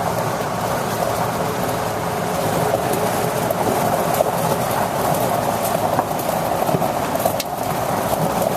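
2001 Ford flatbed dump truck's engine running steadily at idle.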